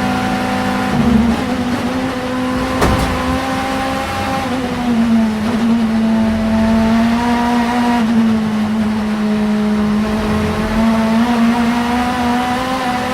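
Vauxhall Vectra Super Touring race car's 2.0-litre four-cylinder engine running at high, nearly steady revs, its pitch wavering only slightly. A single sharp click about three seconds in.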